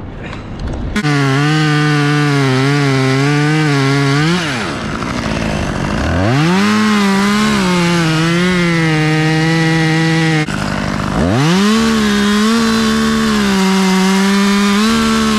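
Battery-powered chainsaw cutting through oak wood: the motor whine sags under load. The trigger is released twice, the motor winding down and spinning straight back up each time.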